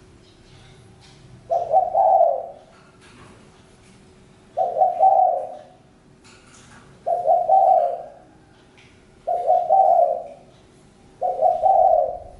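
Spotted dove cooing: five phrases of its low, throaty song, each under a second long, repeated about every two to three seconds.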